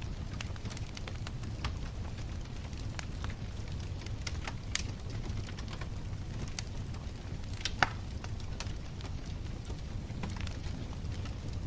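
Wood bonfire burning: a steady low rumble of flame with scattered sharp crackles and pops, two louder pops a few seconds apart in the middle.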